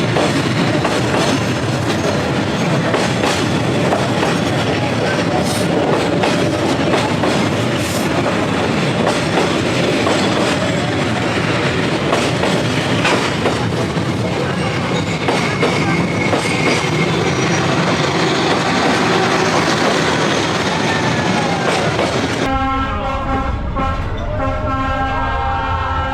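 Train passing close by on street-level track, a loud, steady rumble and clatter of wheels and cars. About 22 seconds in it cuts off abruptly and gives way to a quieter scene with people's voices.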